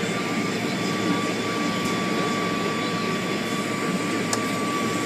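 Car wash equipment running steadily: an even rushing noise with a thin, steady whine.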